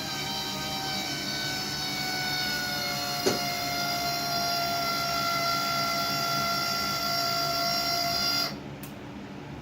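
Electric steering actuator motor on an RC-converted lawn tractor whining steadily, dipping slightly in pitch about a second and a half in, with one sharp click a little past three seconds. The whine cuts off suddenly near the end, leaving a lower hum.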